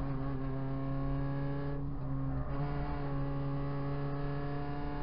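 Proton Saga BLM race car's four-cylinder engine heard from inside the cabin, running under load at steady revs, with a brief wobble in pitch a little over two seconds in.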